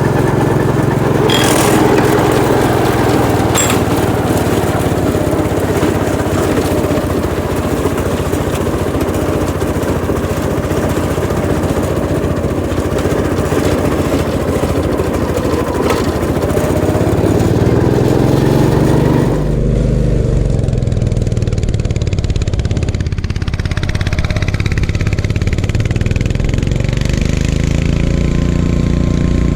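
Gravely 430 two-wheel tractor's engine running, its speed rising and falling slowly at times. About 19 seconds in the sound changes abruptly: the higher hiss drops away while the engine keeps running.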